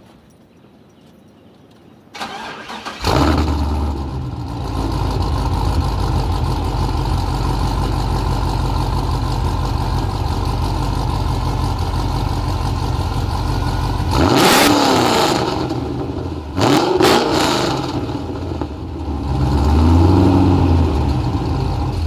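GM LS V8 fitted with an LS9 camshaft, long-tube headers and a 3-inch Magnaflow exhaust with an X-pipe: the starter cranks about two seconds in, the engine catches and settles into a steady idle, then is revved near the middle, blipped twice quickly, and revved once more in a slower rise and fall near the end.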